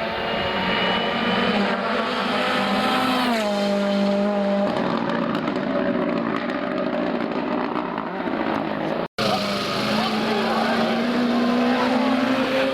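Rally car engines at racing revs. One car's engine note drops sharply about three and a half seconds in as it slows, then holds. After a sudden break about nine seconds in, another engine note climbs steadily.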